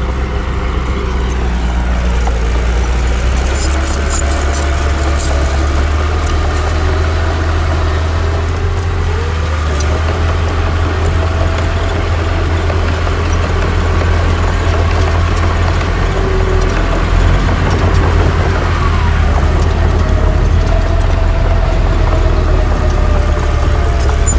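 Heavy diesel earthmoving machinery running steadily: a deep, continuous engine drone whose pitch shifts slightly as the engine is loaded, with faint scattered clicks over it.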